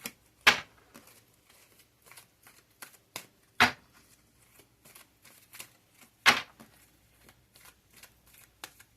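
A deck of cards being shuffled and handled, with three louder sharp snaps about three seconds apart amid fainter rustling clicks.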